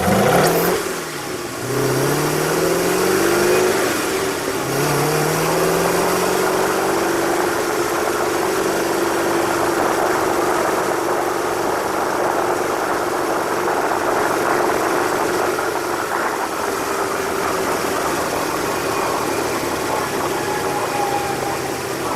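Race car engine at full throttle in a drag run: a sudden loud launch, the pitch climbing through about three gear changes in the first six seconds, then one steady high engine note held to the end.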